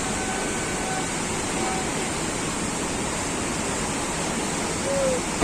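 Steady rushing noise, with a few faint short tones over it.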